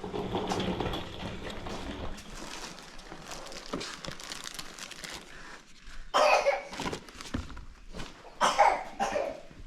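A person coughing: two short, loud coughs, about six seconds in and again about two and a half seconds later.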